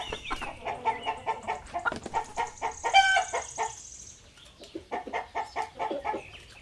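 Rooster clucking in a quick run of short notes, with one louder, short pitched call about three seconds in.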